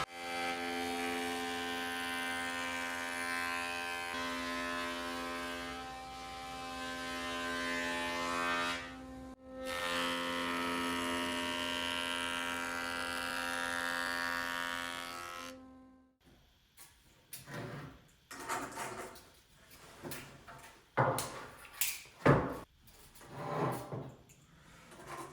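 A woodworking power tool running with a steady, even hum, dropping out briefly about nine seconds in and stopping about sixteen seconds in. After that come scattered knocks and clatters of wood being handled.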